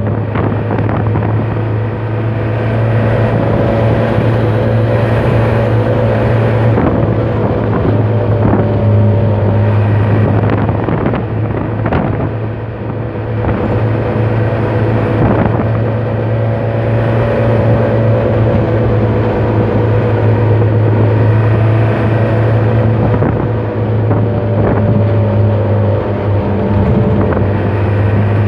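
Truck's diesel engine running steadily while under way, a loud low hum with occasional knocks and rattles. The truck is running empty and the engine is being run in after an overhaul.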